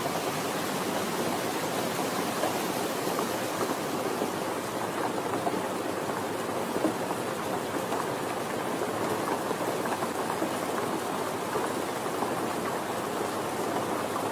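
Steady, gentle rain falling, an even hiss with many small drop ticks.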